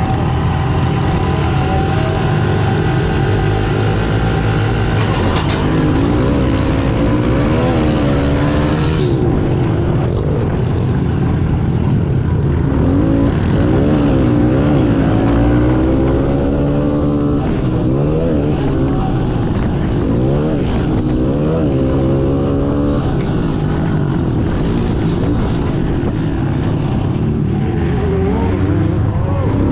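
Pit bike's single-cylinder engine revving up and down hard, rising and dropping in pitch through and out of each corner, heard from the rider's chest-mounted camera. A rushing hiss of wind on the microphone lies over the first several seconds.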